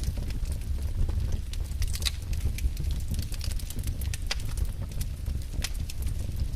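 Wood fire burning in a fireplace: a steady low rumble of flames with irregular sharp crackles and pops of the burning logs.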